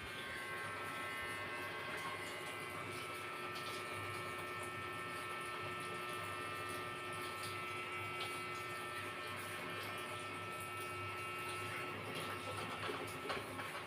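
A steady electrical hum, with several faint high, even tones above it.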